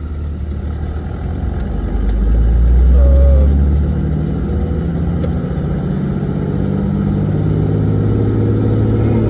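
6.7 L Cummins inline-six turbodiesel of a 2011 Ram 2500 pulling the truck along under way. A loud low rumble swells about two to three seconds in, then the engine note climbs slowly as the truck accelerates in gear.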